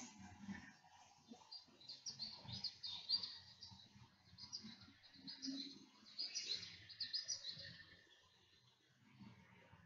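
Small songbirds chirping faintly in quick runs of short high notes, coming in three bouts.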